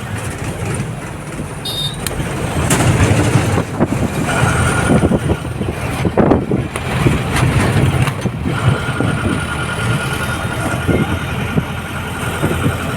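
Motor vehicle engine running amid road traffic noise, with scattered knocks and rattles.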